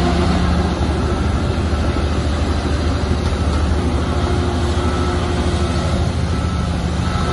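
Shantui crawler bulldozer's diesel engine running steadily with a deep rumble, and a faint high whine comes and goes.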